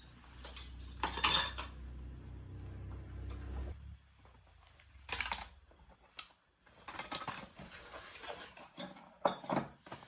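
Clinking and clattering of small hard objects being handled, loudest about a second in. A low hum runs beneath and stops about four seconds in.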